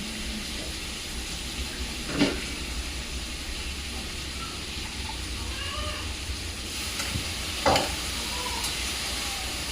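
Onions frying in hot oil with a steady sizzle. Two sharp knocks come through, one about two seconds in and one near eight seconds.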